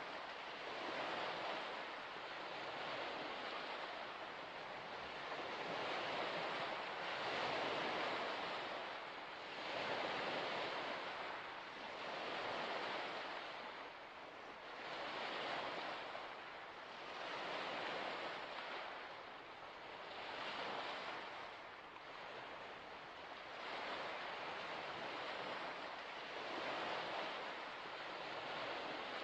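Waves breaking and washing onto a shore, one surge about every two to three seconds over a steady rush of water.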